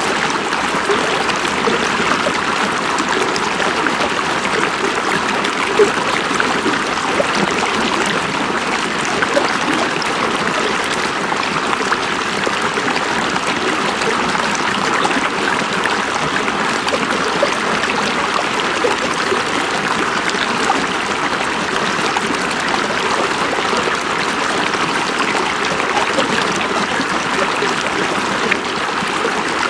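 River water running over rocks: a steady, even rush and babble of a flowing stream.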